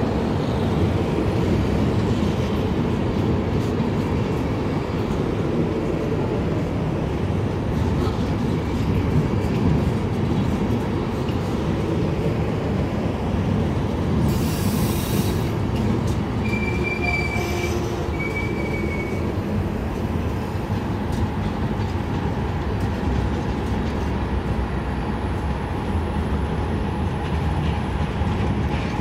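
Passenger coaches of an arriving InterRegio train rolling past at close range, with a steady rumble of wheels on rail. Just past halfway there is a short hiss, followed by two brief high-pitched squeals.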